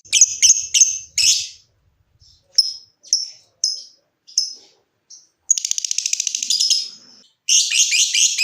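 Lovebird calling with sharp high chirps, at first in quick clusters and then one at a time. About five and a half seconds in comes a fast run of even ticks lasting about a second and a half, and near the end a loud burst of dense chattering calls.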